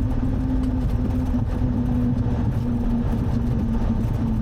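Cessna 182's six-cylinder piston engine and propeller running steadily at low power while taxiing after landing, a constant drone with a low rumble.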